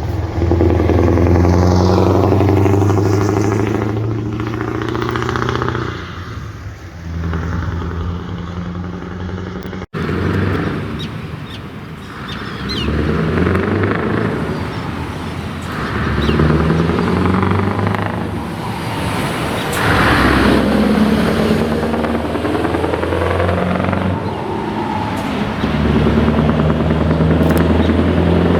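Scania V8 truck engines with open exhaust pipes, loud and deep, the note climbing and dropping back repeatedly as the trucks pull through the gears. The sound cuts out abruptly about ten seconds in and picks up again on another passage of engine sound.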